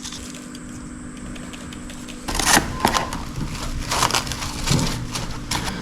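Kitchen handling noise: irregular crackling and light knocks start about two seconds in, over a low steady hum.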